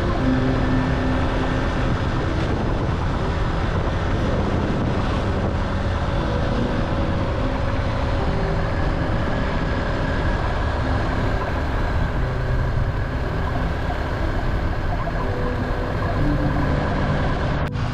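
A motor vehicle running, a steady mix of engine and road noise.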